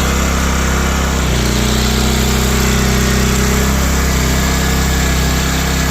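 Small engine of a Coleman Powermate PM900 portable generator running steadily with a light plugged in as a load; its note shifts from about a second in and settles back a few seconds later.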